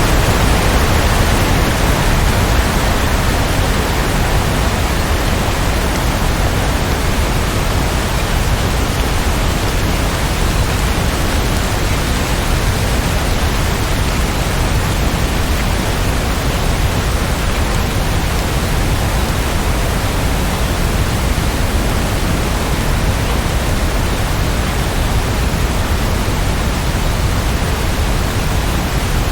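Rain falling in a steady, even rush, with no single drops, thunder or other events standing out.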